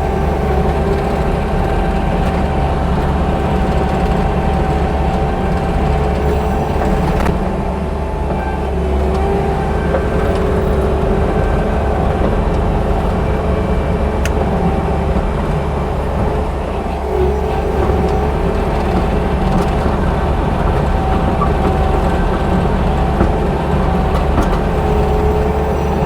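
Bobcat T630 compact track loader's diesel engine running steadily as it works, with a whine that wavers slightly in pitch.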